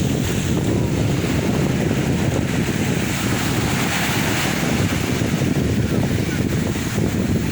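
Sea waves washing against the shore, with wind rumbling on the microphone; a wave breaks with a brighter hiss about four seconds in.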